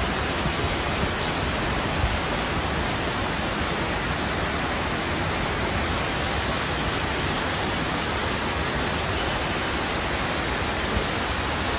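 Steady rushing hiss of water from heavy rain and flooding, an even wash of noise with no change in level.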